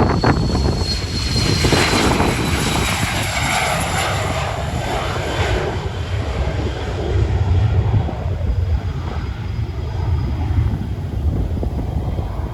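Jet airliner's engines passing close by, a steady rumble with a high whine that slowly falls in pitch over the first few seconds.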